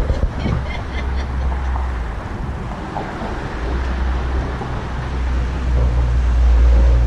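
Wind buffeting a body-worn action camera's microphone while cycling along a city street: a loud low rumble that swells toward the end.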